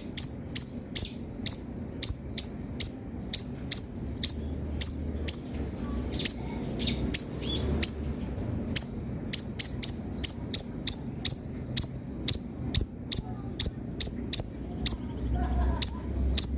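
Kolibri ninja sunbird calling in a quick run of sharp, high chirps, about two or three a second, with a short stretch of softer notes around the middle.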